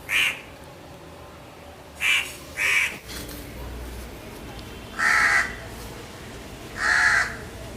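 A bird calling outdoors: five separate loud calls, one at the start, a quick pair about two seconds in, then two longer calls about five and seven seconds in.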